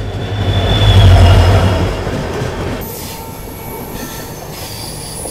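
WDP4D diesel locomotive passing close by on the adjacent track, its engine rumble swelling loud about a second in and then fading. After that, a steady high-pitched train wheel squeal over quieter rolling noise.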